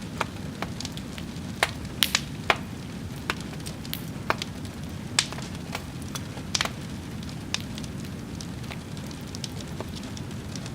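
A wood fire burning with a steady low rumble and irregular sharp crackles and pops, the loudest cluster about two seconds in.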